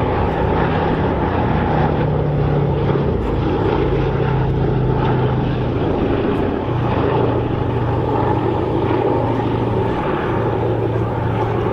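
Four-engined Boeing B-17 Flying Fortress in flight, its radial piston engines running steadily as a low engine hum, the pitch shifting slightly a few times.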